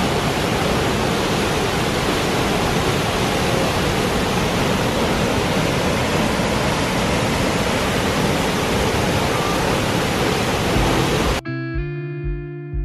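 Waterfall pouring, a steady loud rush of water. Near the end it cuts suddenly to guitar music with a steady beat.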